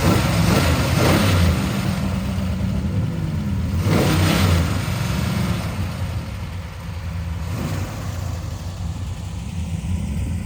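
Car engine idling with a deep, low note, blipped up twice with the throttle: once about a second in and again about four seconds in.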